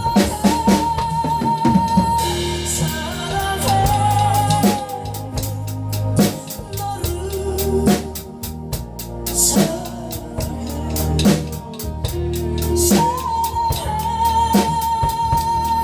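A beginner drummer playing a drum kit along to a recorded pop song with a singing voice. Steady drum strikes sit under the vocal melody, with a stretch of fast, dense strokes about halfway through.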